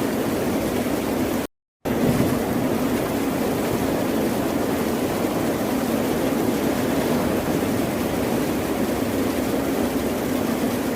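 Continuous rushing of ocean surf, a steady unbroken wash of waves. About a second and a half in, it cuts to dead silence for a split second and then resumes.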